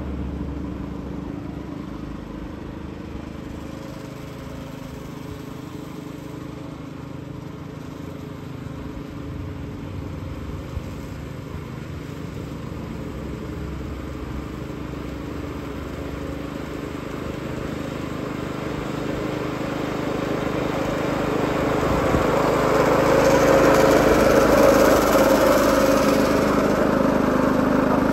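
Reel mower running steadily with a constant engine note, growing clearly louder over the last third as it comes closer.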